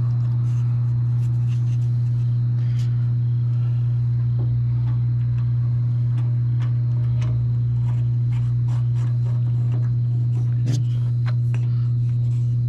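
A steady low hum at an even level, with faint scattered clicks and taps of small metal hardware being handled.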